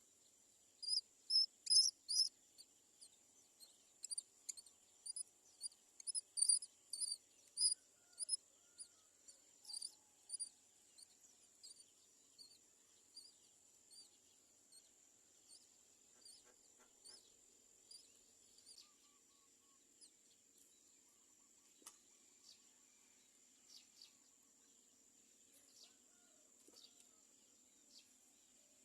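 Myna nestlings calling at the nest: a run of short, high-pitched cries, one or two a second, loudest in the first ten seconds and then fainter and more spaced out. These are hungry chicks begging for food.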